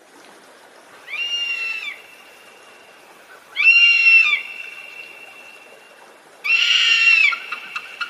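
Bald eagle calling: three high-pitched calls, each just under a second long, about two and a half seconds apart.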